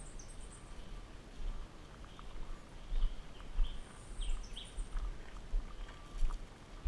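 Forest birds chirping in short, scattered calls, some high and brief, over a low uneven rumble.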